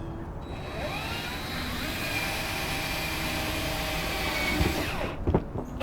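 Power drill spinning up with a rising whine, running steadily for about four seconds, then winding down near the end: driving a screw into a deck board.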